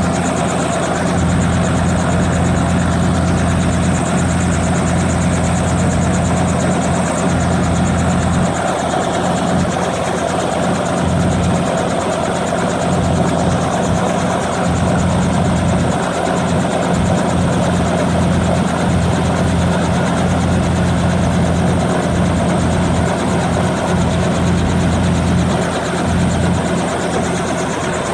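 Tourist helicopter's engine and rotor running steadily, a constant loud low hum over a wash of noise.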